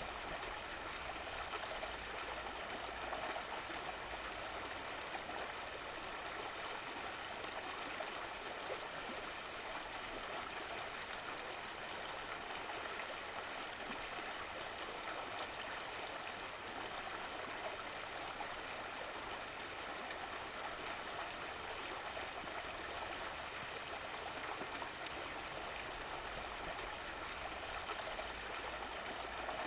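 Running water of a stream flowing and trickling steadily, an even rushing hiss with some gurgling.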